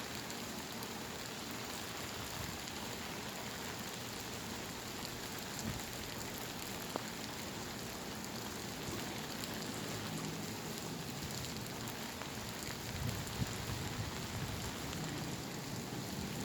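Steady pouring monsoon rain: an even hiss of rain on surfaces with scattered drop ticks. A low rumble rises in the last few seconds.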